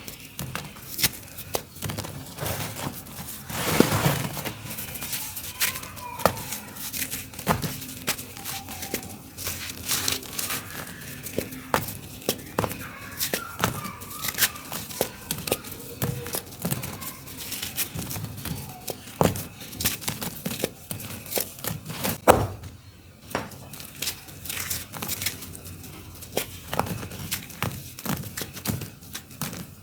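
Dry, crunchy lumps of dirt being crumbled and falling onto a floor: irregular crunching and crackling with scattered thuds, the loudest about four seconds in and again a little after twenty-two seconds.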